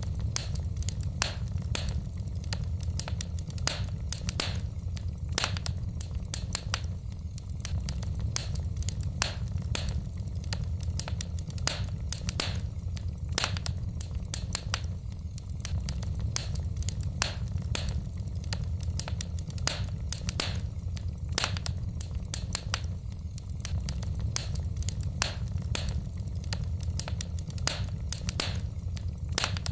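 Wood fire burning in a fireplace, logs crackling with frequent irregular sharp pops over a steady low rumble.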